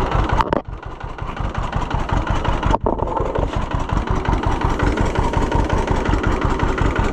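Two-cylinder engine idling with a steady pulsing beat, run with a little choke just after a cold start. Its sound dips sharply twice: about half a second in and again near three seconds in.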